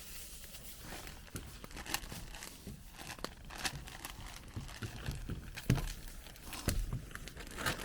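Rustling and crinkling of material being handled, with scattered light clicks and a few soft knocks.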